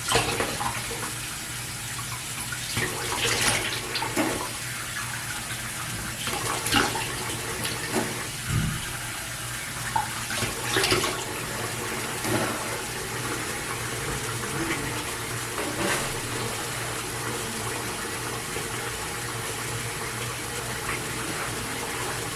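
Water running steadily from a tap, with irregular splashes as a face is rinsed with handfuls of water; the splashing thins out in the last several seconds.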